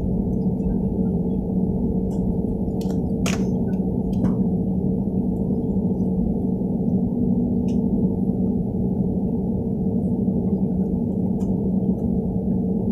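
Airplane engine drone heard from inside the cabin: a steady, unchanging low roar with a constant hum in it. A few faint clicks sound around the third and fourth seconds.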